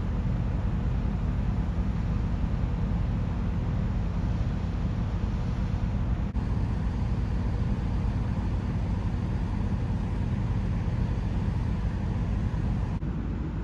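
Steady low engine rumble with a broad wash of noise, unchanging except for two abrupt cuts, the first about halfway through and the second near the end.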